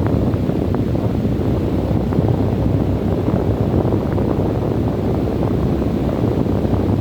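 Wind blowing steadily in a low, even rush, heaviest in the bass, with faint brief flutters on top.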